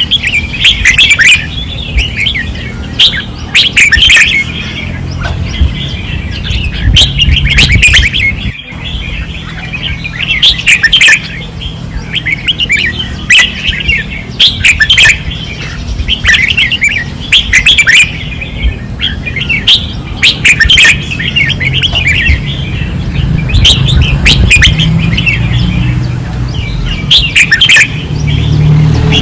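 Red-whiskered bulbuls singing loud short song phrases in quick succession, one after another, over a steady low rumble.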